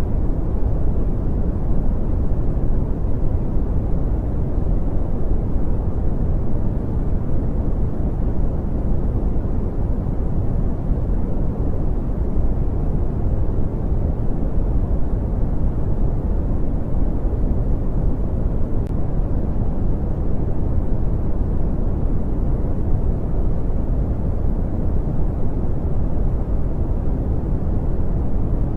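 Steady brown noise: an even, deep rumbling hiss, strongest in the bass and fading toward the treble, with no changes or events.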